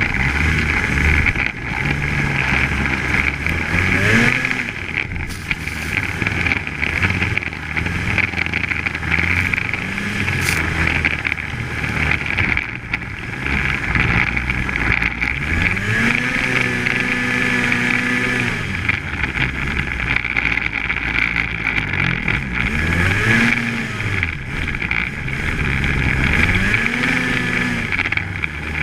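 Polaris Axys 800 snowmobile's two-stroke engine running under way, its pitch rising and falling again and again as the throttle is worked, over a steady hiss.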